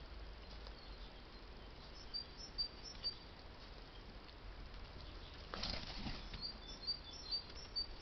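Small birds giving short high chirps in quick strings, about two seconds in and again from about six and a half seconds on, with a brief rustle just before the second string.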